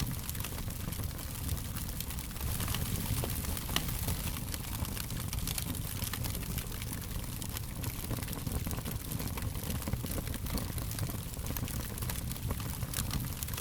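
Fire crackling steadily: a continuous stream of small sharp pops and crackles over a low, even rumble.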